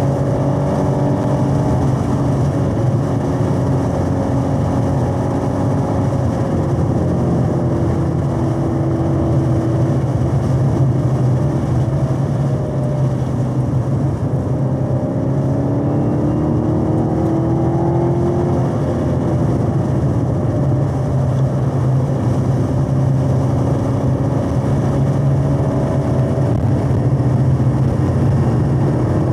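Supercharged 6.2-litre V8 of a Chevrolet Camaro ZL1 1LE, heard from inside the car under hard track driving. The engine note falls as the car slows for a corner, then climbs again as it accelerates out.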